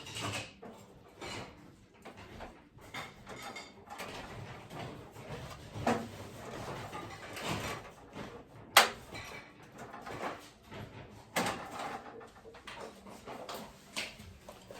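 Household items being handled and rummaged through: scattered knocks and clatters with rustling, the sharpest knock about nine seconds in.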